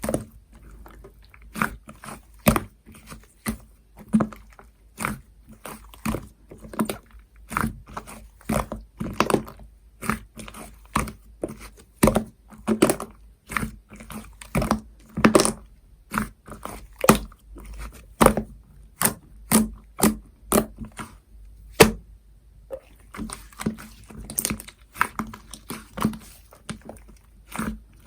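Cream slime being squeezed and worked by hand, with a steady run of sharp pops and clicks from air pockets bursting, about one to two a second.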